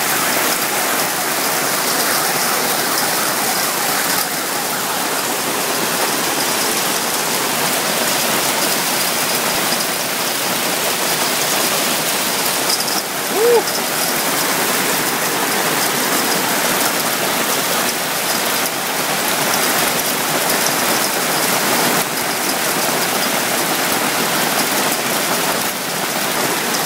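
Hail and rain pelting down in a dense, steady patter. About halfway through comes one brief, short note.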